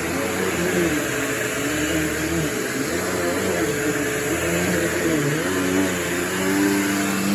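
Bissell PowerForce Turbo bagless upright vacuum running steadily, a motor whine over a broad airflow hiss, its pitch wavering slightly. It needs a new brush roll belt.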